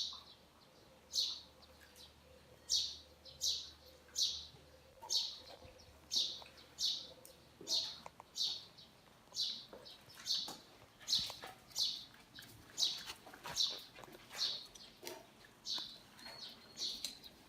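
A bird chirping over and over: short, high chirps repeated at a steady pace of a little more than one a second.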